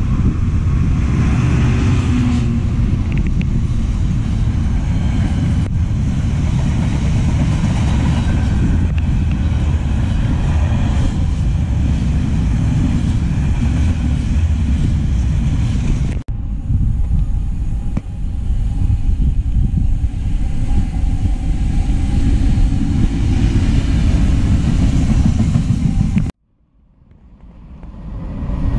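Trains passing on the main line, a loud continuous rumble. The sound breaks off sharply about halfway through and again near the end, where it drops out and fades back in, as one clip cuts to the next.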